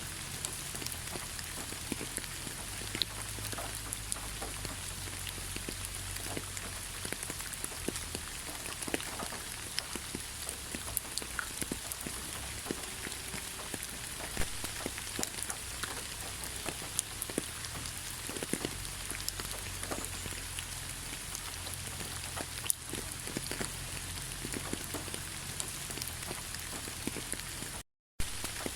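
Steady rain falling in a pine forest: a constant hiss with many separate drops ticking close by. The sound cuts out for a split second near the end.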